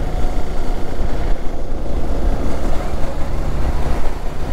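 Hero XPulse 200 4V's single-cylinder engine running as the motorcycle climbs a hill road, under a heavy, uneven low rumble.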